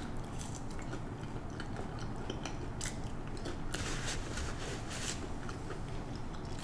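Close-up chewing of a crispy french fry: irregular small crunches and mouth clicks, busier about three and four seconds in.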